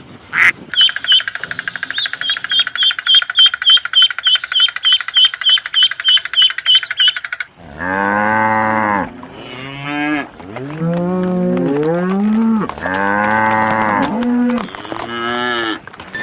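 A fast run of high repeated chirps, about three a second, for the first seven seconds; then cattle mooing, several long, low moos, some rising and falling in pitch.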